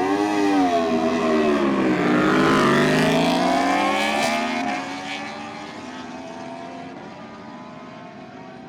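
A superbike's engine revving hard and accelerating away down a drag strip, its pitch wavering, dipping and then climbing. It fades steadily into the distance over the last few seconds.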